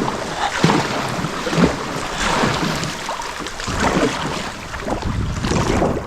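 Kayak paddle blades dipping into the river in repeated splashing strokes, with river water rushing past a sit-on-top kayak.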